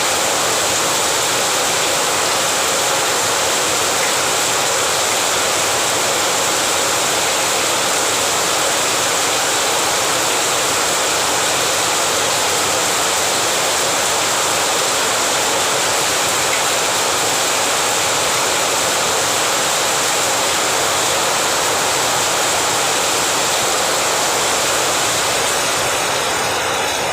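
Heavy rain falling, a loud, steady hiss. It thins slightly near the end.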